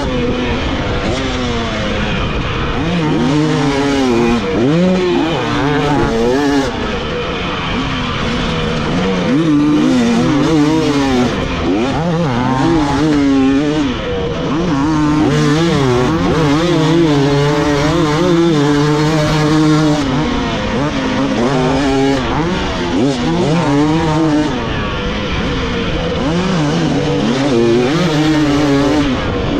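Dirt bike engine being ridden hard, revving up and dropping back over and over as the throttle is worked and released.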